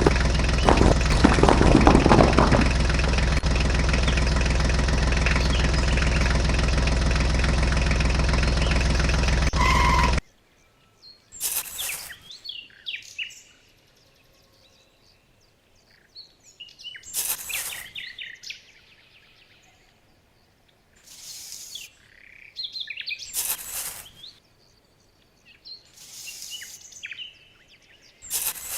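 A small motor runs steadily and cuts off abruptly about ten seconds in. Then birds chirp on and off, with short bursts of rustling noise every few seconds.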